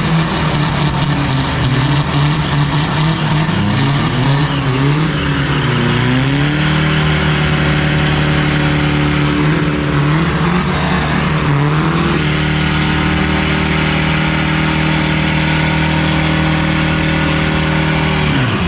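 Modified turbo-diesel drag trucks' engines revving unevenly, then held at a steady high engine speed from about six seconds in, with a brief dip near the middle, and dropping away at the very end.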